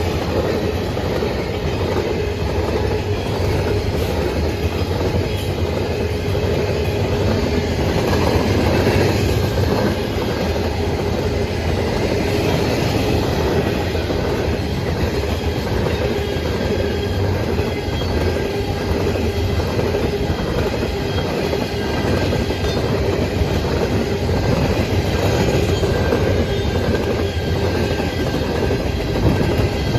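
Freight train cars rolling past, wheels clicking over the rail joints in a steady rhythm, with a thin steady squeal of wheel on rail.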